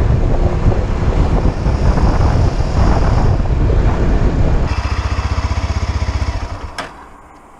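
Motorcycle engine running and then dropping to an evenly pulsing idle about four and a half seconds in. Near the end it cuts out with a click and goes quiet.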